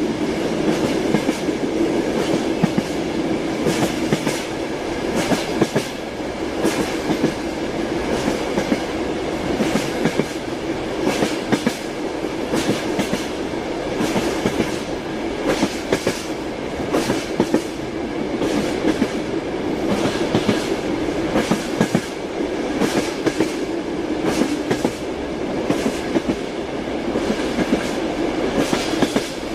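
A moving train's wheels clacking over the rail joints, the clacks coming again and again over a steady rumbling run with a constant hum.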